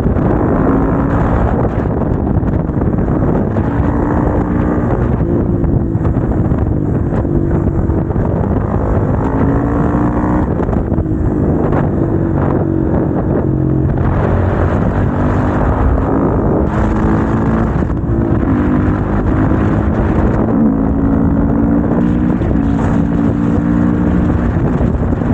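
Motorcycle engine under way, its pitch climbing under acceleration and dropping back at each gear change or roll-off, over and over, with wind noise on the microphone.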